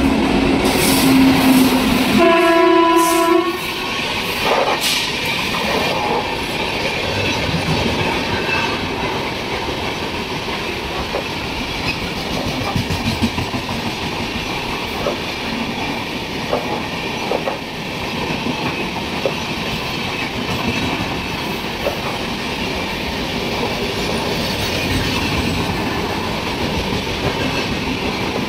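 A WAP-7 electric locomotive sounds its horn as it comes through: a low note for about two seconds, then a higher note for about a second. After that comes the steady rumble and clacking of the express's LHB passenger coaches passing along the track.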